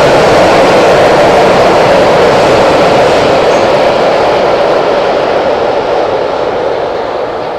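Train crossing an iron railway bridge: a loud, steady noise that fades away over the last few seconds as the train moves off.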